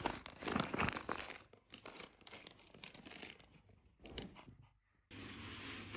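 A quick run of rustling, crinkling noises for about four seconds, fading out, then a steady hiss from about five seconds in.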